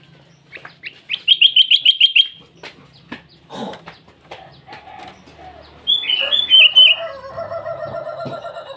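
Sooty-headed bulbul calling: a quick run of about ten sharp notes a second in, then louder warbling phrases about six seconds in. A steady pulsing chatter follows near the end.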